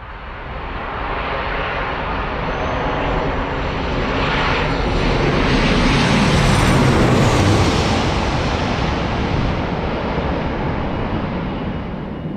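Jet airliner passing on its landing approach: engine noise builds over about six seconds, peaks, then eases off, with a high engine whine that drops in pitch as it goes by.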